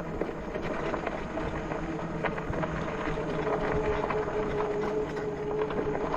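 Electric bike on the move: tyres rolling over the track, small rattles and wind on the microphone, under a steady hum.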